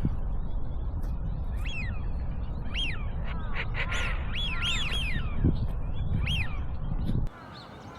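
Wild birds calling: repeated short, arching high notes, several overlapping near the middle, over a steady low rumble of wind or handling noise. The rumble cuts off sharply about seven seconds in, leaving fainter calls.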